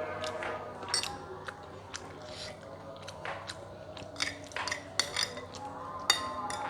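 Eating sounds: scattered clicks and clinks of utensils against a plate, with chewing, over faint background music.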